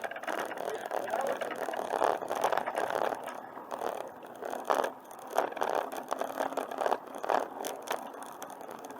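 Bicycle ridden along a trail: steady rolling noise with irregular rattles and knocks from the bike over bumps in the surface.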